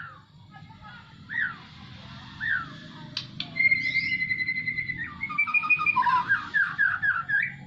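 Songbird, known locally as a jabes, singing loudly. A few single down-slurred whistles, then about three seconds in a long rapid trill and a quick run of varied notes, over a low rumble of wind.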